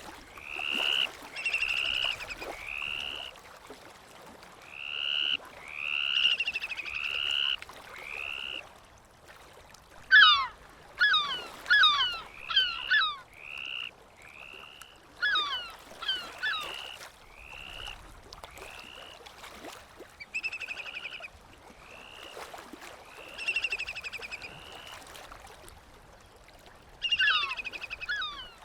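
Seabirds calling over and over: short arched calls, with runs of quick falling notes several times.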